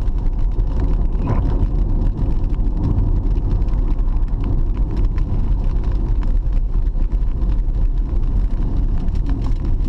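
Steady low rumble and road noise of a car driving, unbroken throughout.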